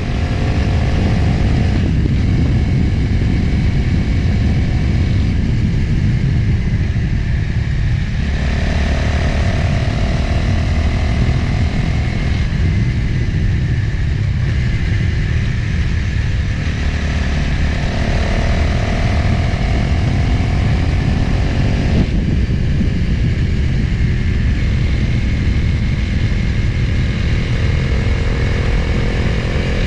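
Motorcycle engine running while riding, with heavy wind rush over the microphone. The engine note shifts pitch several times and rises near the end.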